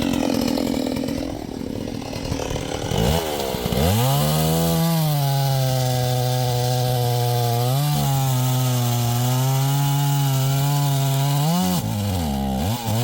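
Two-stroke chainsaw revving up about three seconds in and held at steady high revs through a cut. It drops off and picks up again briefly near the end.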